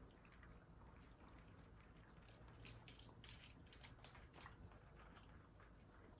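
A dog eating, with faint chewing and biting clicks coming in a quick run through the middle.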